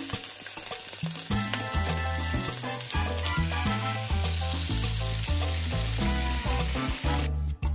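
Razor clams sizzling in hot olive oil on a griddle pan, a steady frying hiss, under background music with a bass line that comes in clearer about a second in. Near the end the sizzling cuts off, leaving only the music.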